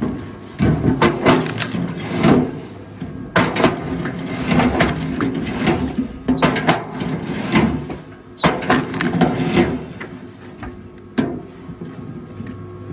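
Rail log splitter forcing logs apart: wood cracking and splintering in about five loud bursts a few seconds apart, over the steady hum of the machine's motor.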